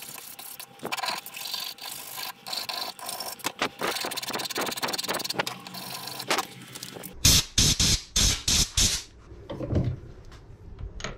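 A file rasping over a disc-brake pad clamped in a vise, in many quick strokes, to roughen and clean the pad face against brake squeal. About seven seconds in come five short, loud puffs of air blowing the filings off.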